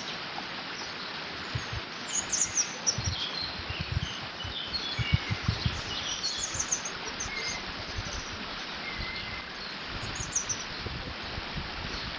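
Water running through a beaver dam as a steady rush, with small birds chirping in short high bursts a few times. Wind gusts buffet the microphone with low thumps.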